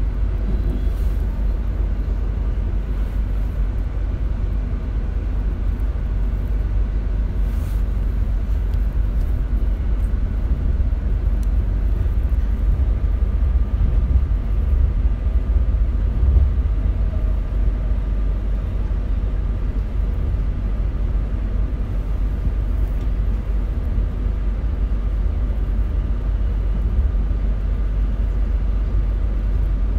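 RER C commuter train heard from inside the carriage while running: a steady low rumble of the train on the track, with a faint steady whine above it.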